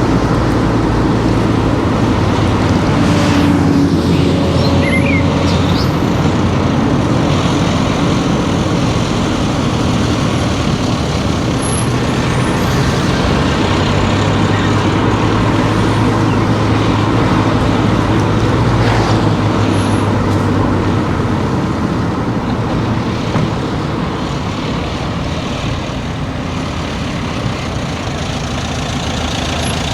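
Car driving along, with its engine running steadily under a continuous wash of tyre and road noise. Other traffic passes, once about three seconds in and again about nineteen seconds in, and the engine note eases off near the end.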